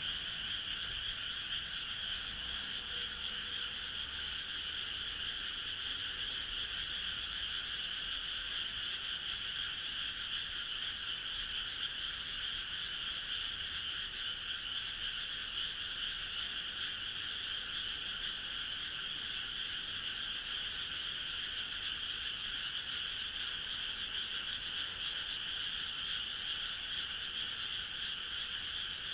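Dense frog chorus: many frogs calling at once in a steady, continuous mass of sound.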